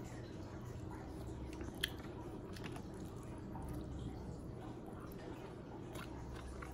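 Close-up mouth sounds of a person chewing a mouthful of rice and fried milkfish eaten by hand, over a steady low hum. A sharp click about two seconds in, with a few softer clicks near the end.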